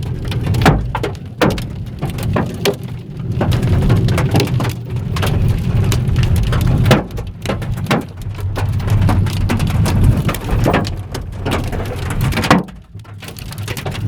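Hailstones, some near golf-ball size, pelting a car's roof and windshield, heard from inside the cabin: a dense, irregular clatter of hard knocks over a low rumble, easing briefly near the end.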